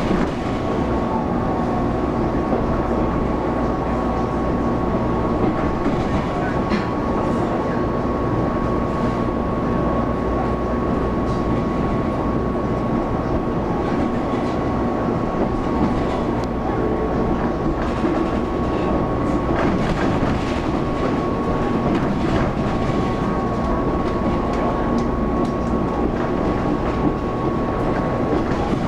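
Running sound of a Taiwan Railways local electric multiple-unit train at speed, heard from inside the car. A steady rumble carries a constant high hum, with scattered light clicks of the wheels over the track.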